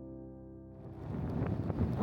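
A held piano chord dies away in the first second, then wind buffeting the microphone swells in and grows louder towards the end.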